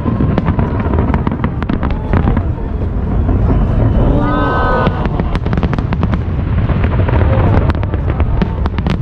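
Aerial firework shells bursting in a dense volley: many sharp cracks in quick succession over a continuous low rumble of booms. The cracks grow thicker after about five seconds in.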